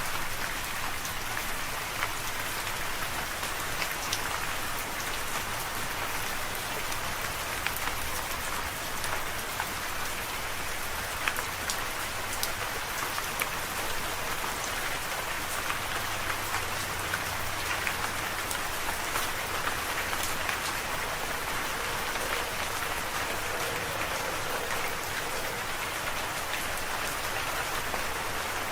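Steady rain falling and pattering on a surface, with many individual drops ticking through an even hiss.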